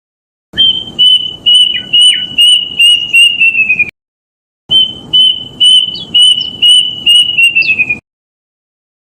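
Kedasih cuckoo (Cacomantis) singing two phrases of high, clear whistled notes, about three a second. Each phrase quickens and slides slightly lower at its end, with a short pause between the phrases.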